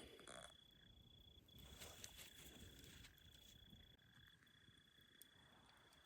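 Near silence with a faint, steady, high-pitched insect trill that drops out briefly a few times, and a few soft clicks.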